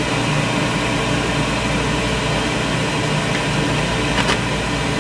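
A steady mechanical hum with a hiss, like a running motor or fan, with a faint click about four seconds in.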